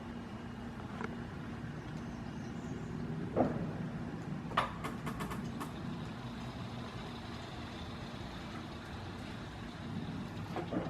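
Steady low mechanical hum, like an idling engine or a running motor, with a few sharp clicks about a third and halfway through.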